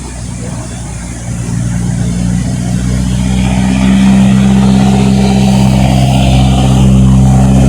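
A motor vehicle engine running at a steady pitch, without revving up and down. It grows louder over the first few seconds, then holds steady.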